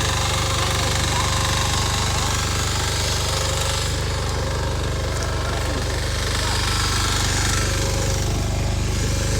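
Two-wheel walking tractor's engine running steadily under load with a rear tine tiller attached, a low even drone that holds at a constant level.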